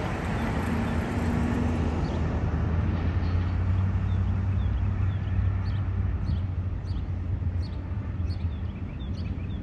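Double-stack intermodal freight cars rolling past on the climbing main line: a steady low rumble of wheels on rail that eases slightly near the end.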